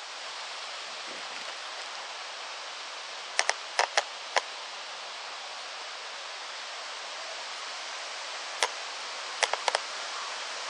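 Steady outdoor hiss at a wooded campsite, with sharp clicks in two quick clusters, five about three and a half seconds in and four more near the end.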